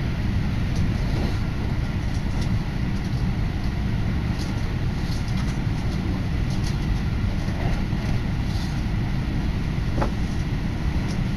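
Inside a moving electric commuter train, the carriage rumbles steadily as it runs along the rails.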